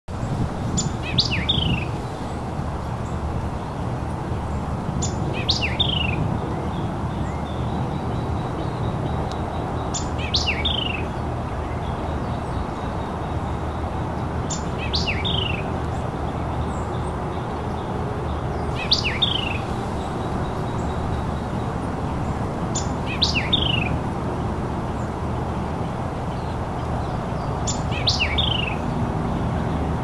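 White-eyed vireo singing a short, quick song phrase about every four to five seconds, seven times in all, over a steady low rushing noise.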